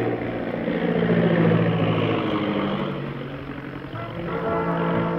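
Steady drone of a propeller aircraft's piston engine, swelling and then easing off. Brass-led orchestral music comes in about four seconds in.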